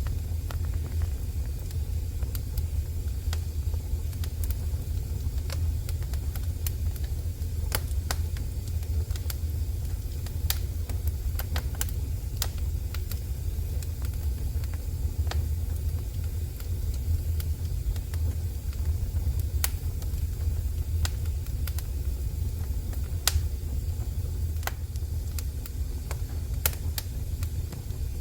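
Wood fire burning in a fireplace: irregular sharp crackles and pops, several every second or so, over a steady low rumble of the flames.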